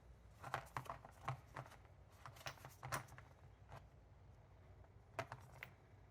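Light, irregular clicks and taps of small gearbox parts and tools being handled on a workbench as they are lubed up for reassembly.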